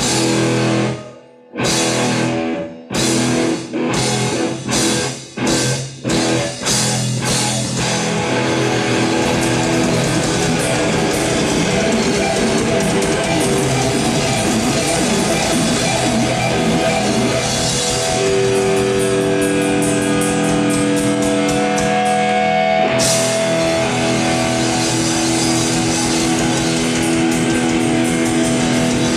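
A rock band playing live with electric guitars and a drum kit. It opens with a run of stop-start hits that come faster and faster, then breaks into continuous full-band playing with held guitar notes.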